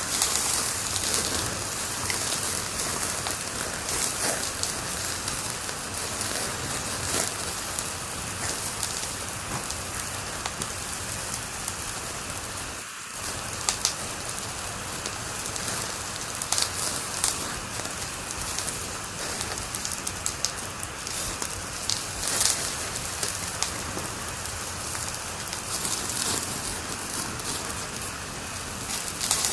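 Wood fire crackling in a fireplace: a steady hiss with frequent sharp pops and snaps, one of the loudest a little over twenty seconds in.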